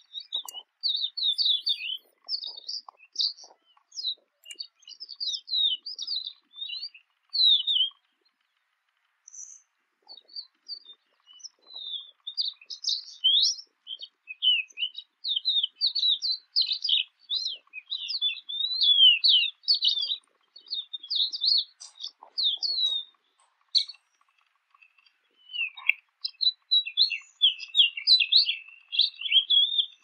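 Jungle babbler chattering: rapid runs of short, high call notes, pausing briefly about eight seconds in.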